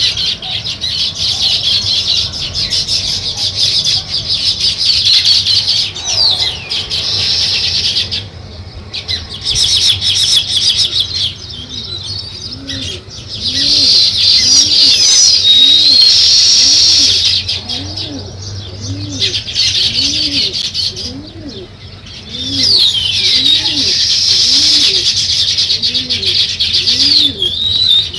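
A flock of sparrows chirping and chattering in dense, overlapping bursts that come in stretches of several seconds with brief lulls between them. Through the second half a low, arching call repeats steadily underneath, about once every 0.7 seconds.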